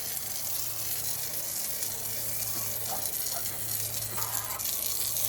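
Pressure washer spraying water in a steady hiss, with the low steady hum of its motor running underneath.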